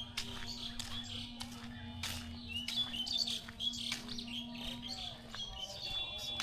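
Small birds chirping and twittering, many quick calls overlapping, with a steady low hum underneath that stops about five seconds in.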